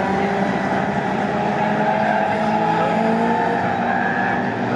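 Several pre-1966 touring cars racing together, their engines at high revs with pitches rising and falling against each other, with tyres squealing under cornering load.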